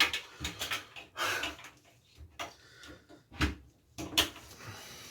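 A series of knocks, taps and light clatter from shaving products and containers being picked up, shifted and set down while a cluttered stash is rearranged.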